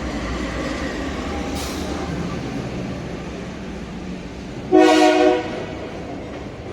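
Freight train running past with a steady low rumble. About five seconds in, the locomotive's horn sounds one short, loud blast.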